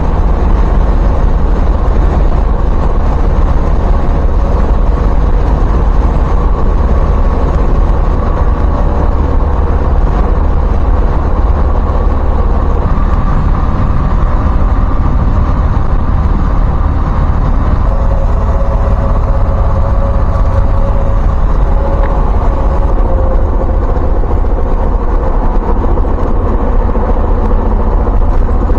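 Steady, loud driving noise from inside a moving Jeep Cherokee XJ: a deep low rumble of engine, road and wind, unchanging throughout.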